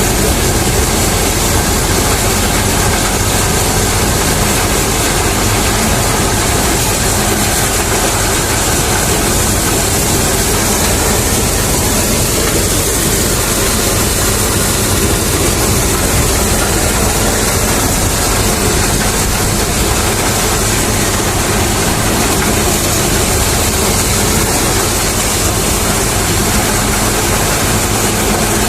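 Reinforce P-335 maize thresher running steadily off a tractor, the tractor engine's note under a loud, even rushing of the threshing drum and blower.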